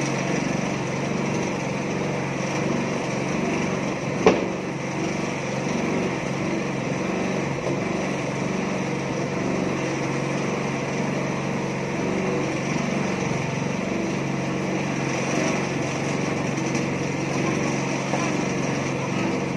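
Small petrol engine of a mini concrete mixer running steadily, with one sharp knock about four seconds in.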